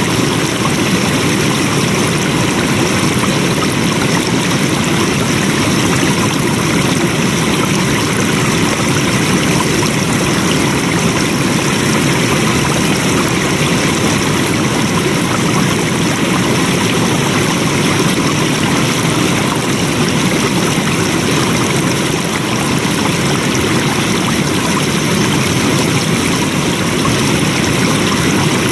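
Steady rush of flowing water, like a stream or small waterfall, running without a break.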